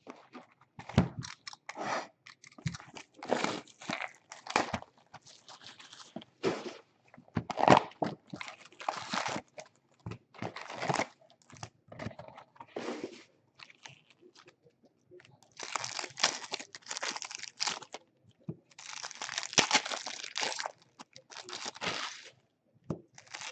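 Packs of 2018 Bowman baseball cards being torn open and their wrappers crinkled and crumpled, with irregular crackles and clicks from handling the packs and cards; the crinkling is longest and densest in two stretches in the second half.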